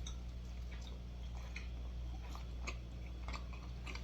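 Close-miked chewing of soft food: irregular small wet mouth clicks and smacks, several a second, over a steady low hum.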